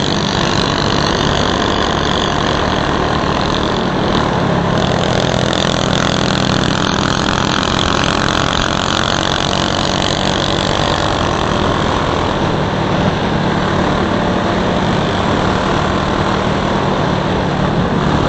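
DB30 mini bike's small engine running steadily under way, with an even noise over it.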